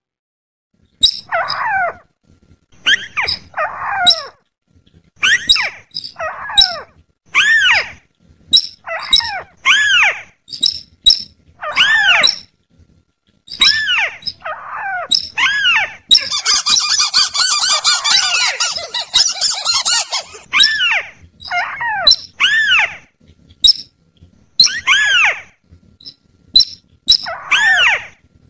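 Bird-luring calls, the sintar and paddy-field trikusan combination: short arched calls repeated about once a second or so, each with sharp high notes. About halfway through comes a dense chattering run lasting around four seconds.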